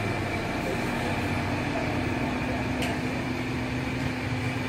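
Car engine idling after a remote start, a steady hum with an even rush of air. A single short click about three seconds in.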